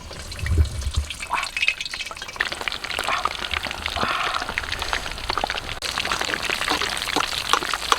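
Food frying in a pan: a dense, steady crackling sizzle, with a low thump about half a second in.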